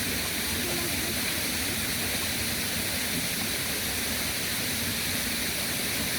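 Waterfall rushing steadily, running full after a night of very heavy rain.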